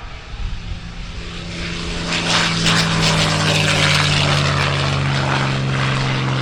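Piston-engined propeller aircraft flying past. It grows louder about two seconds in and its engine note falls slightly in pitch as it passes.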